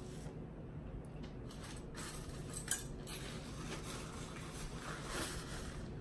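Eating and handling takeout food: light clicks, clinks and rustles, the sharpest click nearly three seconds in.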